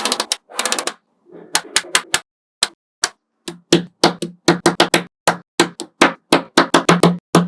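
Small magnetic balls clicking as they snap onto one another. A quick rattling run of clicks in the first second, then single sharp clicks, settling into a steady pace of about three a second in the second half.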